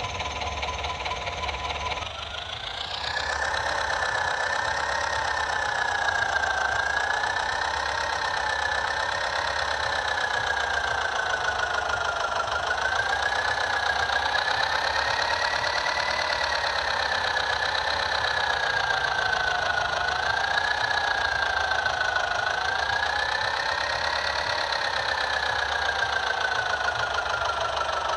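Small electric motor and gearing of a DIY mini toy tractor running: a whine that rises in pitch about two seconds in, then wavers up and down as the load changes.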